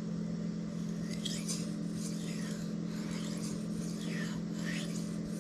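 A knife edge being stroked across a wet Shapton Kuromaku ceramic whetstone, a series of soft rasping strokes about one or two a second, on the second side of the blade, over a steady low hum.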